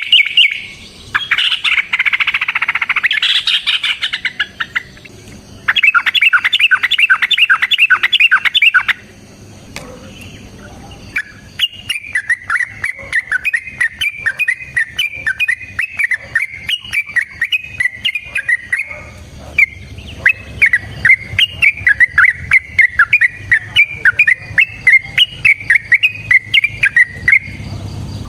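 Yellow-vented bulbul (trucukan) singing long, rapid runs of short chattering notes, with a short lull about nine seconds in.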